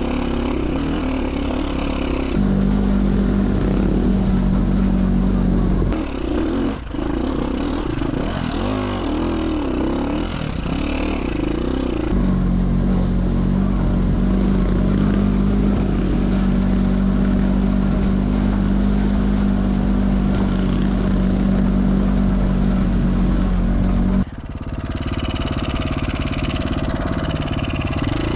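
KTM 450 SX-F four-stroke single-cylinder dirt bike engine running under load on a rocky trail. Stretches of steady engine note change abruptly to stretches where the revs rise and fall.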